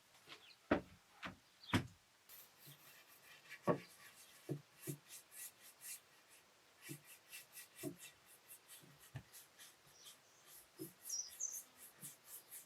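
Paintbrush strokes on wooden furniture: a quick run of faint, scratchy brushing sounds, with a few sharper knocks in the first few seconds.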